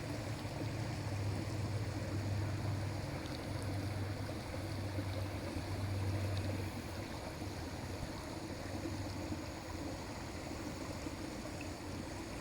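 Creek water running steadily. A low hum lies under it and stops about seven seconds in.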